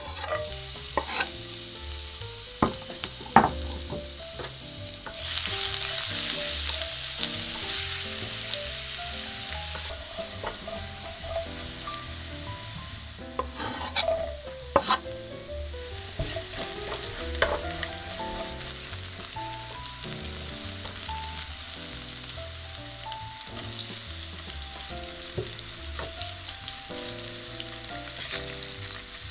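Minced garlic and green onion sizzling in oil in a nonstick frying pan while a spatula stirs and taps against the pan. The sizzle grows louder for several seconds about five seconds in. Sharp clicks and scrapes come now and then as ingredients are scraped into the pan.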